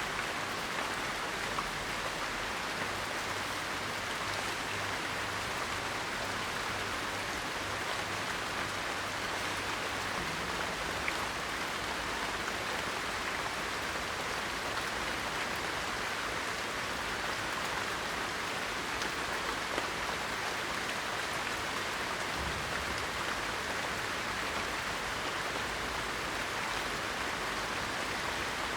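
Steady rain falling: an even, unbroken hiss with a few faint separate drop ticks.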